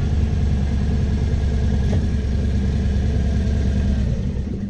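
Harley-Davidson touring motorcycle's V-twin engine running at low, steady revs, easing off slightly near the end as the bike slows to pull off the road.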